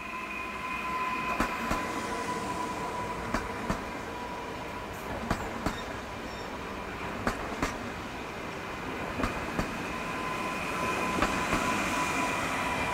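Newag Impuls electric multiple unit (Koleje Dolnośląskie 45WE) passing close by. Its wheels click over a rail joint in quick pairs, one pair about every two seconds as each bogie goes over, above a steady rolling noise and a steady high whine.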